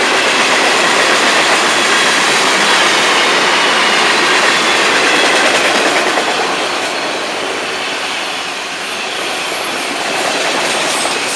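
Freight cars of a long Florida East Coast freight train rolling past on the rails: a steady, loud rush and rattle of steel wheels on track, with a faint thin squeal riding on top. It eases off a little after about six seconds, then swells again near the end.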